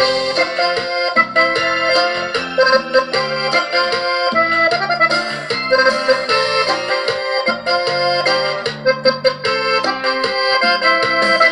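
Instrumental break of a Latin worship song, with an accordion playing the melody over a steady rhythm backing.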